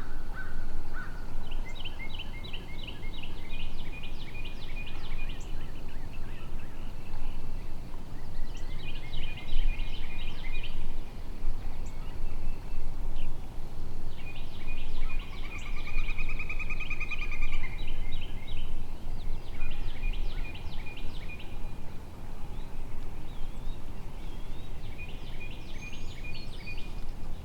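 A wild turkey gobbler gobbles once, a rattling call lasting a couple of seconds about halfway through. Around it come repeated short series of quick, high calling notes every few seconds, over a steady outdoor background noise.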